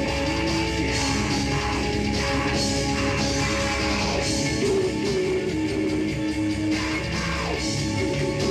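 Heavy metal band playing live: distorted guitars and a drum kit with cymbals, with held guitar notes.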